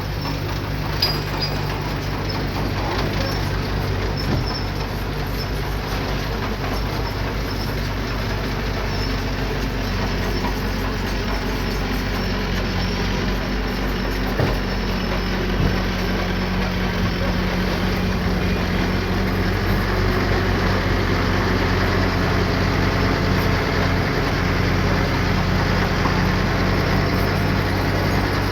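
Diesel engine of heavy earthmoving equipment running steadily, growing a little louder in the second half, with a few short sharp knocks.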